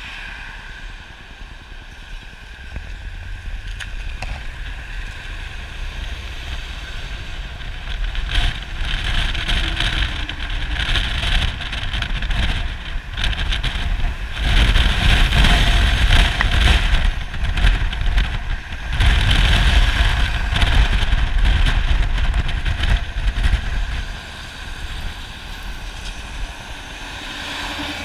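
Road vehicle noise with a gusty low rumble, growing louder for much of the stretch and easing off near the end.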